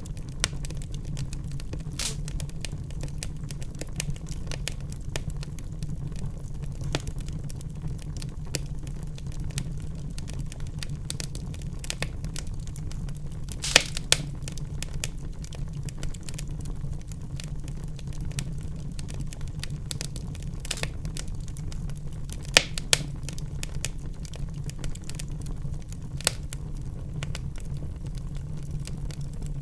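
Wood fire burning in a fireplace: a steady low rumble of the flames with constant crackling and occasional louder pops.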